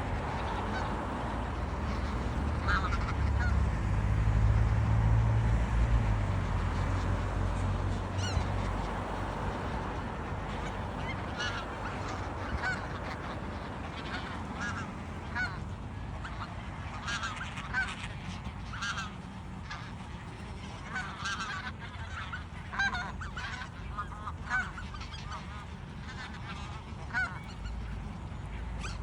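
A flock of wild geese calling, short honks scattered at first and coming thick and fast through the second half. A low rumble runs under the first several seconds.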